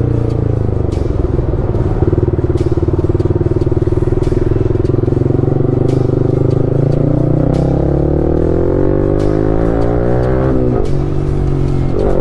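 KTM RC 390's single-cylinder engine under way, holding a steady speed, then revving up from about eight seconds in, dropping sharply on a gear change near eleven seconds and pulling up again at the end. Background music plays along with it.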